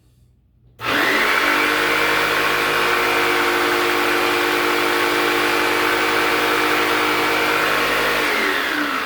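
Electric power saw starting about a second in and running at a steady pitch while cutting a wooden piece to length, then winding down with falling pitch near the end.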